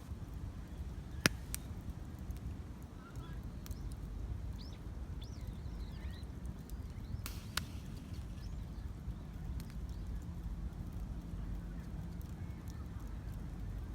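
Wood fire in a Campingmoon X-mini pro mini fire pit burning steadily, with a few sharp pops and crackles, the loudest about a second in. The fire is well established and has settled.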